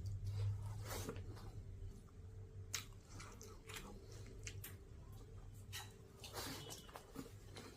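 Fried pork being chewed: scattered short wet clicks and small crunches, irregular and faint, over a steady low hum.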